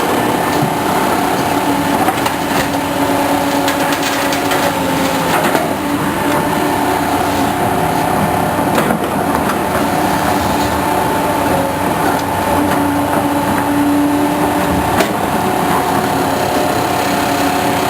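Engine of a Caterpillar machine running steadily under load with a whining hum, and a few sharp knocks.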